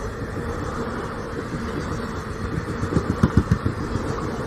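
Old passenger train rolling slowly past with a steady low rumble, and a quick run of knocks about three seconds in.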